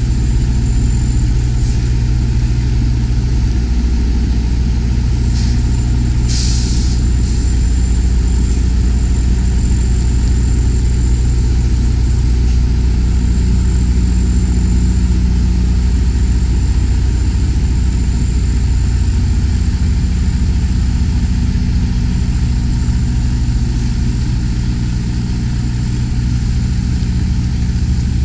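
Semi tractor's diesel engine running at a steady low idle while the tractor-trailer backs slowly, with a brief hiss about six and a half seconds in.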